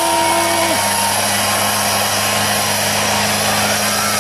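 Monster truck engines held at steady high revs under a heavy hiss, the big V-tread tyres spinning on the pull pad in a tug of war. A higher whine drops away just under a second in.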